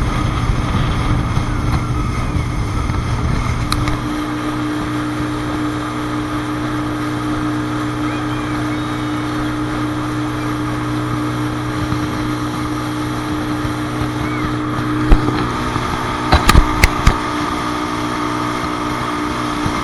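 Traxxas Spartan RC boat's brushless electric motor running on the water with a steady whine. A low rumble drops away about four seconds in, and a few sharp knocks come about three-quarters of the way through.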